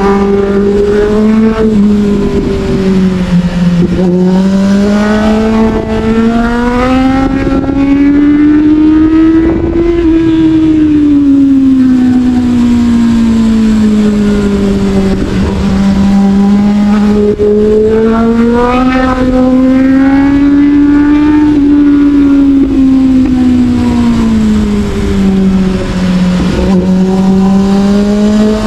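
Motorcycle engine pulling on the open road, its pitch climbing slowly as the bike accelerates and sinking as it eases off, twice over, with steady wind noise underneath.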